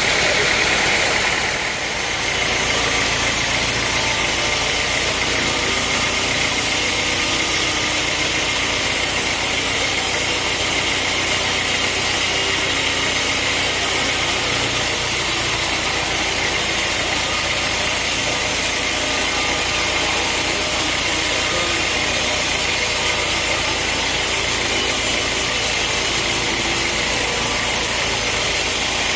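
Sawmill engine running steadily with a loud, even mechanical hiss. There is a brief dip in level about two seconds in.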